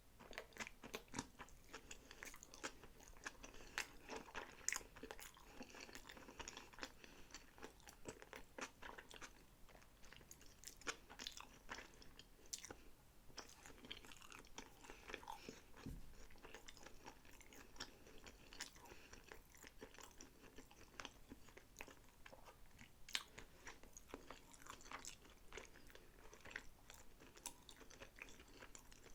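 Close-miked chewing and biting of sushi rolls, a dense run of irregular small clicks and crackles.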